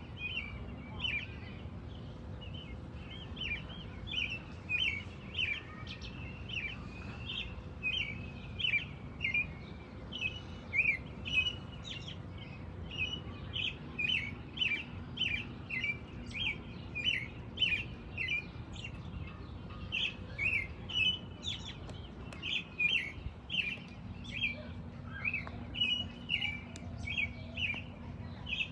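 American robin calling: repeated short, high chirps, about one or two a second, over a faint steady low hum.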